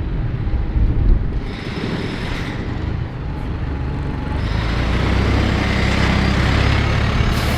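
City street traffic, with a heavy diesel vehicle's engine running and the noise growing louder from about halfway through as it draws near.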